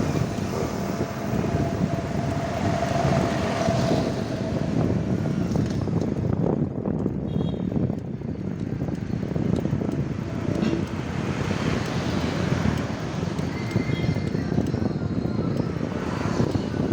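Road traffic noise with a steady low rumble, heard from a moving bicycle among cars. A faint steady whine sounds through the first four seconds.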